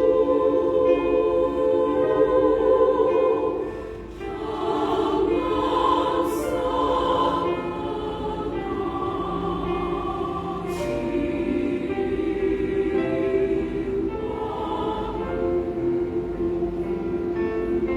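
Women's choir singing sustained chords in harmony, with a brief drop in loudness about four seconds in before the singing swells again.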